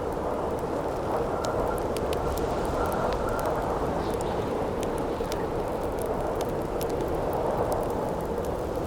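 Campfire crackling with sharp, irregular pops over a steady rush of wind.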